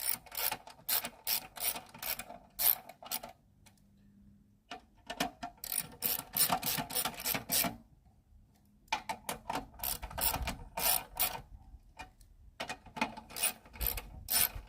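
Ratchet wrench clicking in quick runs as screws on a lawnmower are tightened, four bursts of rapid clicks with short pauses between them.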